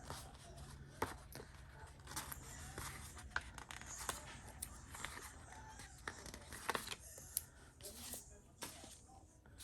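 Paper stickers being peeled from a sheet and pressed onto planner pages: light rustling with scattered sharp ticks and taps.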